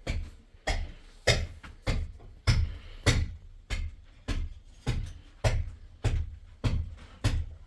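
A steady rhythm of heavy strikes, about one every 0.6 seconds, each a dull thud with a sharp crack on top.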